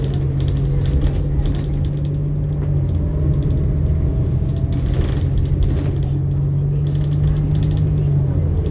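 Inside a New Flyer XN60 articulated bus on the move: its Cummins Westport ISL-G natural-gas engine and Allison transmission run with a steady low hum, and a faint whine rises in pitch through the middle. Short bursts of metallic jangling rattles come and go on top.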